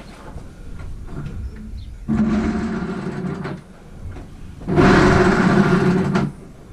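The small two-stroke engine of an Echo 4500 backpack leaf blower is being pull-started. It fires and runs twice, each time for about a second and a half, then dies: a cold first start on freshly added fuel, with a carburettor that still needs tuning.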